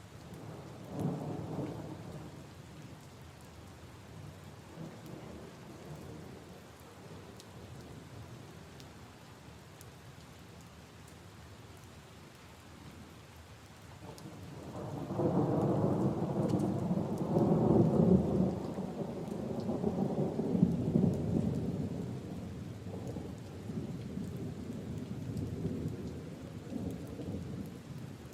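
Steady rain falling on leaves and puddles, with rolling thunder: a short rumble about a second in, then a much louder, long rumble that builds about halfway through and slowly dies away.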